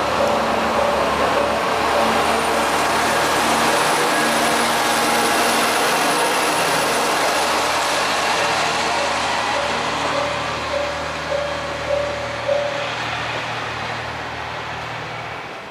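Kanto Railway Joso Line diesel railcar pulling out of the station and running past, its engine and wheels loud, with a rapidly repeating tone that stops about four-fifths of the way through. A few sharp wheel clacks come near the end, and then the noise fades as the train moves away.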